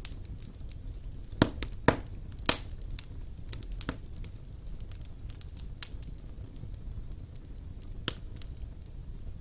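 Wood fire in a fireplace crackling, with sharp pops: three loud ones close together between about one and a half and two and a half seconds in, and another near the end. Beneath them is a low, steady rumble.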